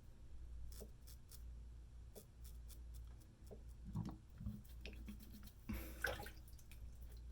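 Straight razor scraping short stubble on the chin in faint, short strokes, with slightly louder strokes about four and six seconds in.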